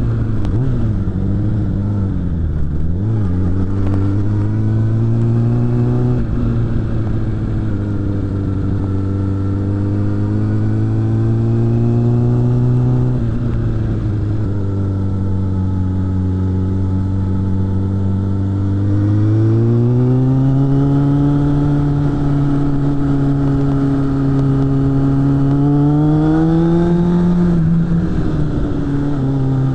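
Suzuki GSF600 Bandit's inline-four engine running through a BOS aftermarket exhaust while riding. Its pitch dips and recovers early on, steps down about a third of the way in, then climbs with throttle twice and drops sharply near the end.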